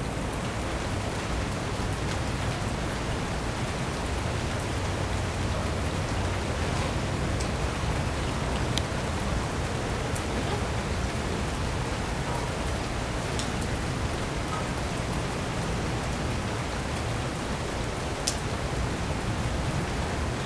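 Steady rain falling, an even hiss with a few faint drop clicks scattered through it.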